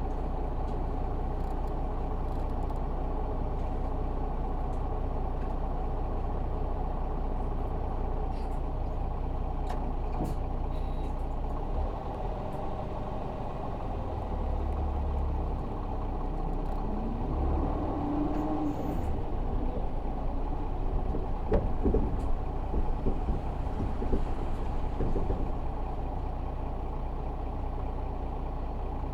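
Isuzu Erga city bus's 6HK1 inline-six diesel engine running steadily, heard from inside the passenger cabin. There is a short rising whine about two-thirds of the way through, then a spell of louder knocks and rattles.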